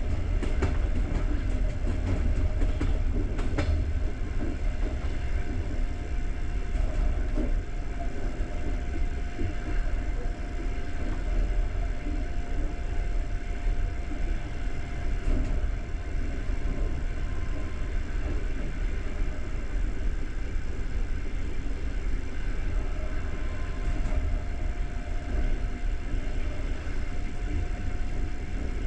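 Passenger train coach running along the track, heard from inside the coach: a steady rumble of wheels on rails with a faint steady whine. There are a few sharp clicks in the first few seconds.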